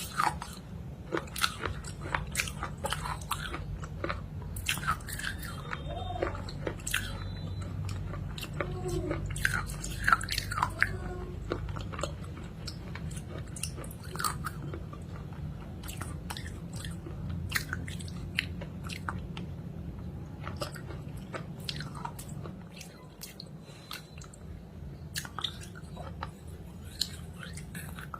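Close-up biting and chewing of a crunchy food: many sharp crunches at irregular intervals as it is bitten and ground between the teeth.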